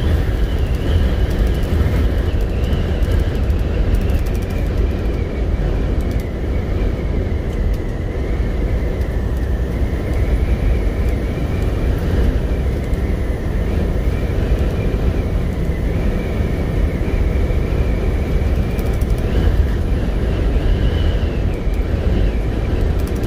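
Semi-truck under way on the highway: steady engine and road rumble heard from inside the cab, with a faint high whistle that wavers in pitch over it.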